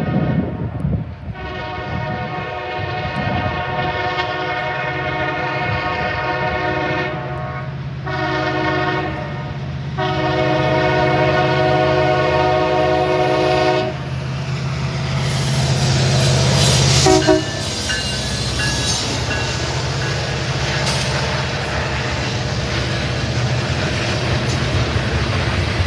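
Diesel freight locomotive's multi-chime air horn sounding three blasts: a long one, a short one, then another long one, over the low rumble of the locomotive's engine. Then the train rolls past with steady rail and wheel noise and a brief metallic squeal.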